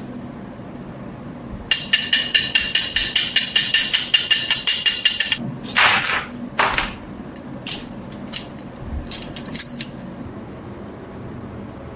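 Rapid, even tapping on a piece of metal that rings at a steady pitch, about seven strikes a second for three and a half seconds. Two short rasping scrapes follow, then a scatter of light metallic clicks.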